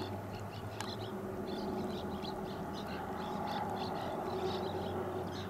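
Birds chirping, short high calls repeated several times a second, over a steady low hum.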